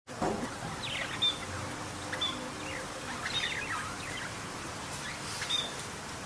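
Small birds chirping: a string of short, high chirps and quick falling notes over a steady hiss of background noise.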